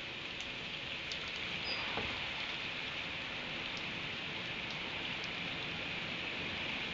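Steady rain falling, with scattered sharp drip ticks and one stronger knock about two seconds in.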